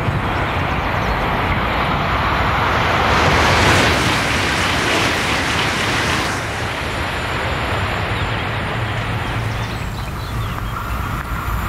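High-speed train passing at speed: a loud rush of air and wheel-on-rail noise that swells to its loudest about four seconds in, then falls away about six seconds in, leaving a lower rumble.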